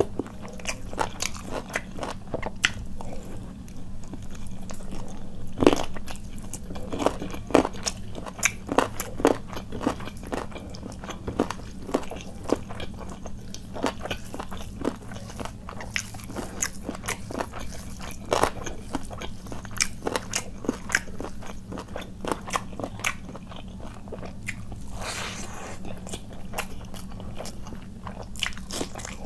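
Close-miked eating by hand: chewing and biting mouthfuls of bhuna khichuri rice with chicken curry, with frequent short wet mouth clicks and crunches at irregular intervals. Near the end comes the crunch of a bite of raw onion.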